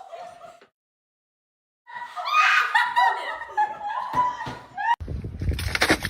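People laughing loudly in quick, high bursts after a moment of dead silence. About five seconds in, the laughter gives way suddenly to a rough rushing noise with knocks.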